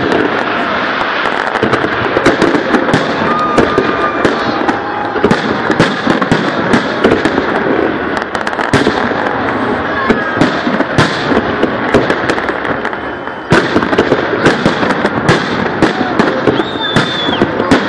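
Festive fireworks display going off, with a dense, continuous run of sharp bangs and crackles and the odd brief whistle.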